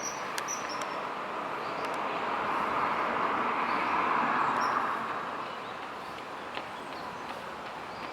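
A passing vehicle's rumbling road noise, swelling to a peak about three to four seconds in and then fading.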